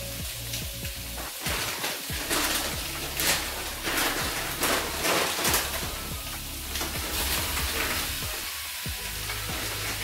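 Chicken pieces frying in a wok, a steady sizzle with louder crackling spells between about two and six seconds in.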